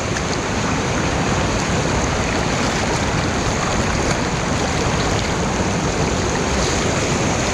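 Steady rush of water pouring over a small waterfall.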